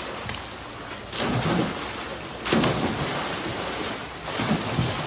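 Water splashing in three sudden surges over a noisy wash.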